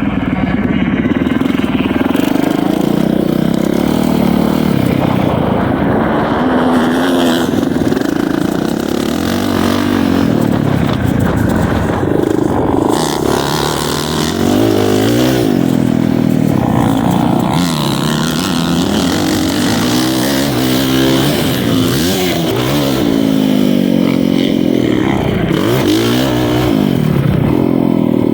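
Motocross dirt bike engine running hard, its pitch rising and falling again and again as the throttle is opened and closed through the gears.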